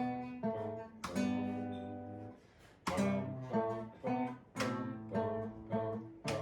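Acoustic guitar being strummed by a learner practising a song: chords struck a few times a second. One chord rings longer about a second in, and there is a brief break before the strumming resumes.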